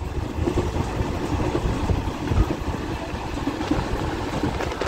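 DEMU (diesel-electric multiple unit) train running at speed, heard from inside a passenger coach: a steady low rumble of wheels on the rails and the moving coach.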